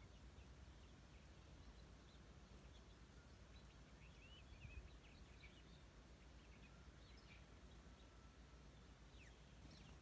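Near silence with faint, scattered bird chirps and short calls, a few clustered in the middle and more near the end.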